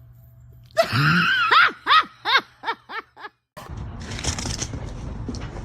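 A run of short, pitched vocal cries, each rising and falling, coming quicker, shorter and fainter until they stop. Steady background noise follows.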